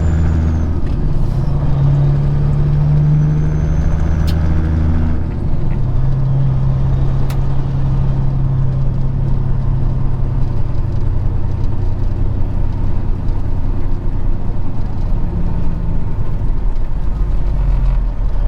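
Peterbilt 379 semi truck's diesel engine running steadily at low speed, its pitch dropping about five seconds in, with a few sharp clicks.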